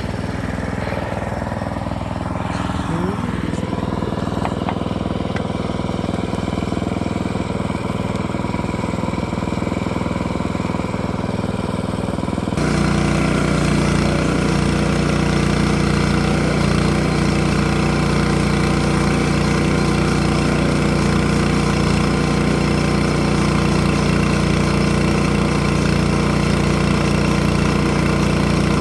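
Small engine of a log-milling rig running steadily at idle, then about twelve seconds in it steps suddenly up to a louder, fuller run and holds there, as when the throttle is opened for a cut.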